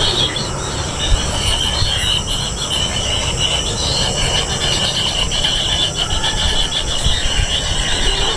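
Kingfisher nestlings giving continuous, raspy begging calls that waver in strength without a break, over a steady low rumble.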